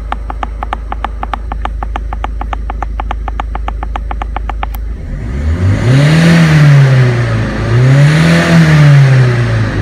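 Turbocharged car engine idling with a regular light ticking about six times a second, then revved twice, about five and seven and a half seconds in, its pitch rising and falling each time with a rushing hiss as the turbo builds boost.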